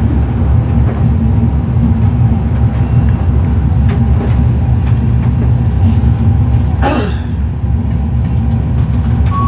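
Locomotive simulator's train sound played through speakers: a diesel freight train running, with a steady low rumble. A brief gliding sound comes about seven seconds in.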